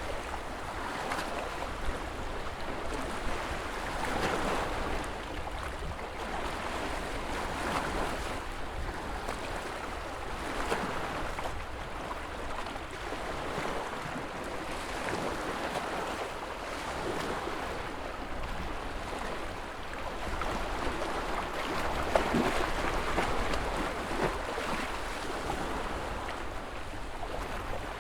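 Ocean waves breaking and washing in, a continuous rush of surf that swells every few seconds and is loudest about two-thirds of the way through.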